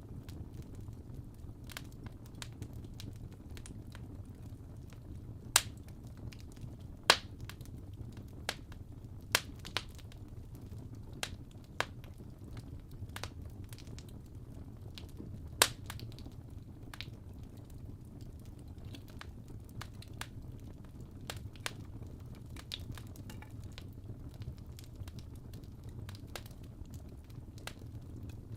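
Wood fire crackling: irregular sharp pops and snaps, a few much louder than the rest, over a steady low rumble.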